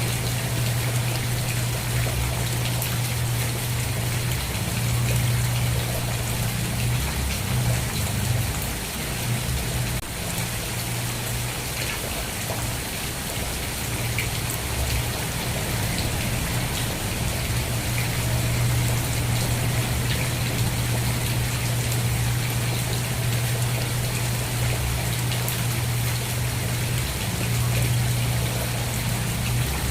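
Steady rain falling, with fine drop patter, over a continuous low hum.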